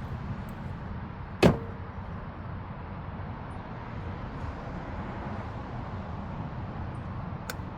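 A single sharp metallic clank with a brief ring, a hand tool knocking against metal while working a bolt, over a steady low background rumble. A faint click comes near the end.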